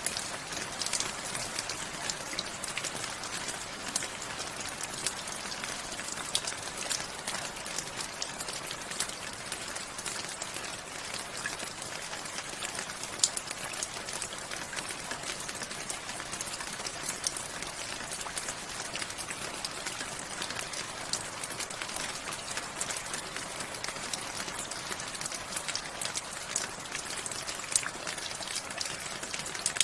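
Steady rain falling, a dense even hiss with many individual drops pattering sharply on a hard surface.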